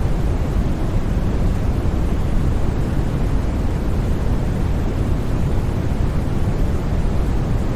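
Steady, unchanging sleep noise sold as white noise, with no breaks or sudden sounds. It is heavy in the low end, so it sounds deep rather than hissy.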